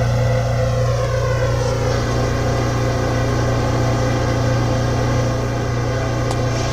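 R160A subway car's traction motors whining down in a falling chord as the train slows to a stop, then settling into the steady hum of the stationary car's motors and equipment.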